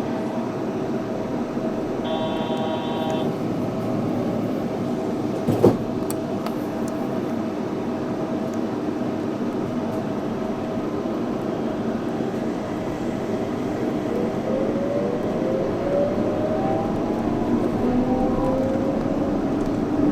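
Yurikamome 7300-series rubber-tyred automated train running, a steady rumble with a motor whine that rises in pitch over the last few seconds. A brief pitched tone sounds about two seconds in, and a single sharp knock comes about five and a half seconds in.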